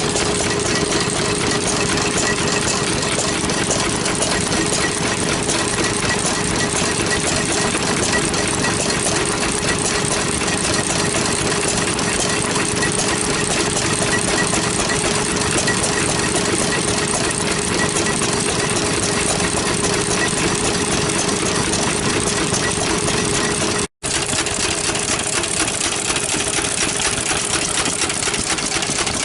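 Vintage stationary engines running steadily. About 24 seconds in the sound cuts out for an instant and comes back changed.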